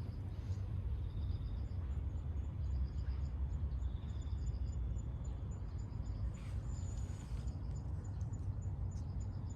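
Insects chirping outdoors: short pulsed trills come and go, with a steady high pulse repeating two or three times a second, over a constant low rumble.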